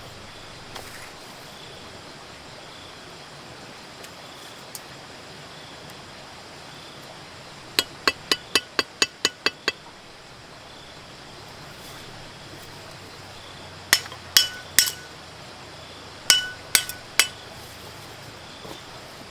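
Hammer blows with a short metallic ring, in groups: a quick run of about eight strikes at roughly four a second, then two sets of three slower blows near the end.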